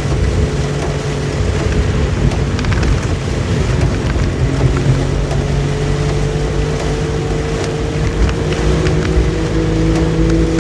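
Suzuki Jimny SJ30's two-stroke three-cylinder engine running under way, its note rising slowly through the second half, over a steady wash of heavy rain and road noise.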